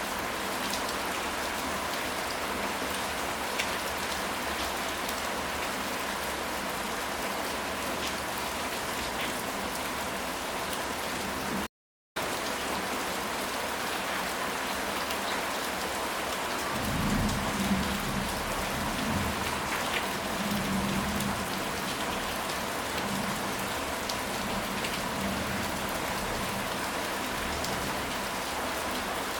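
Steady rain falling, with a low rumble of thunder for a few seconds about two-thirds of the way through. The rain cuts out completely for a split second near the middle.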